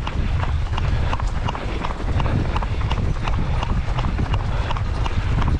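A runner's footsteps slapping on pavement at a steady stride, about three a second, over heavy wind buffeting the microphone.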